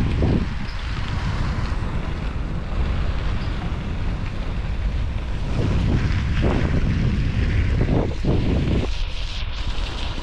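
Wind buffeting the microphone of a camera on a moving bicycle, a steady low rumble with stronger gusts around six to eight seconds in that ease off near the end.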